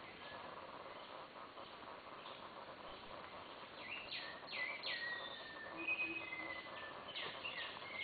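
Jungle birds calling over a steady background hiss of the forest. From about halfway in come several quick calls that drop sharply in pitch, along with a few short steady whistles.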